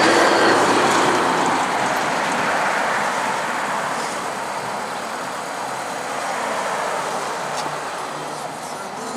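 Road traffic noise: a vehicle passing on a main road, loudest at the start and slowly fading away over several seconds.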